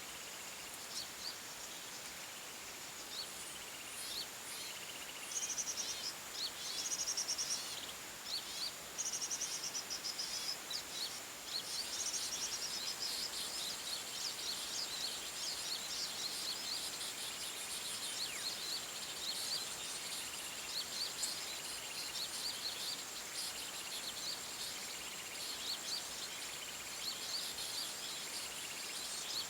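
Several forest birds chirping and calling in quick, high-pitched notes and repeated short phrases, busier from about five seconds in, over a steady high-pitched whine.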